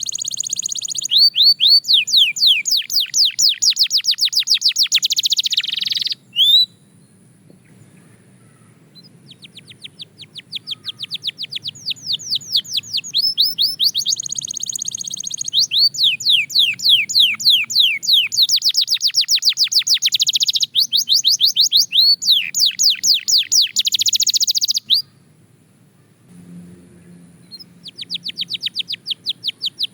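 Belgian canary singing: fast, high trills of rapidly repeated down-sweeping notes, in phrases several seconds long with short pauses between them.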